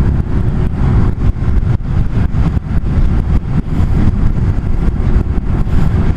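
Wind rushing and buffeting on the microphone while riding a Zero SR electric motorcycle, a dense low rumble with rapid gusty flutter and no engine note.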